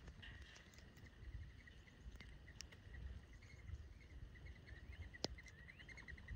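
Faint chirps of small birds at a feeder, in quick runs that get busier in the second half. A few sharp clicks are scattered through, the loudest about five seconds in.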